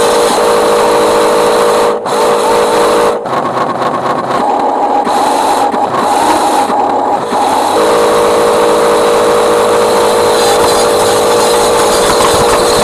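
Electric drive motor and gearbox of a remote-control Scania model truck whining steadily as it drives. The whine jumps higher in pitch about three seconds in and drops back near the middle.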